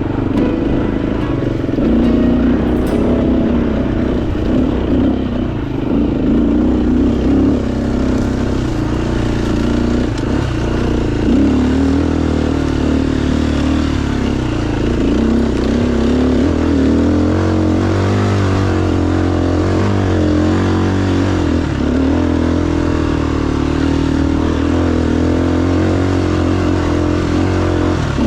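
Dirt bike engine running under way, its revs rising and falling steadily with the throttle.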